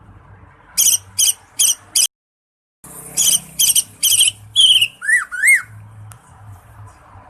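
Cucak ijo (green leafbird) singing loud, high whistled notes: four evenly spaced notes, a brief total dropout, then a quicker run of notes ending in two lower swooping notes.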